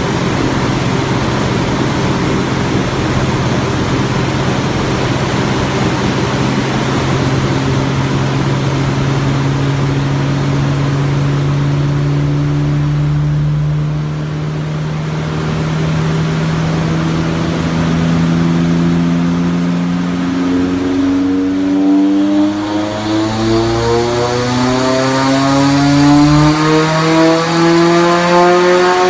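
Turbocharged Scion FR-S's 2.0 L flat-four engine running on a chassis dyno. It holds a steady speed for the first dozen seconds or so, then climbs steadily in pitch as the car accelerates on the rollers, rising fastest and getting louder over the last several seconds.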